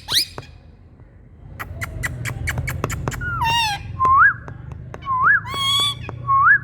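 Indian green parrots (rose-ringed parakeets) calling: after a brief pause, a run of sharp clicks, then harsh screeching calls mixed with short whistled notes that rise and fall, about one a second. A low steady hum sits underneath.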